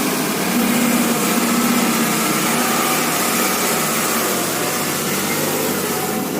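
A small motor running steadily with a hissy whine, holding an even pitch throughout.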